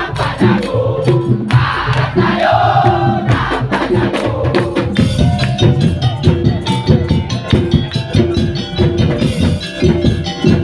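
Madurese tong-tong (daul) ensemble playing: a dense, fast rhythm on drums and wooden percussion under a repeating pitched melody, with group chanting in the first few seconds.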